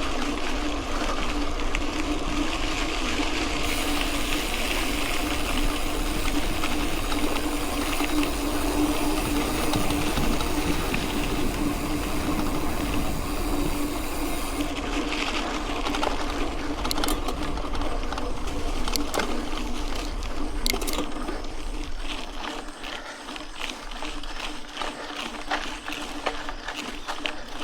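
Mountain bike rolling along a dirt road: steady tyre and drivetrain noise with a constant hum, and from about halfway on, sharp clicks and rattles from the bike over the rough surface.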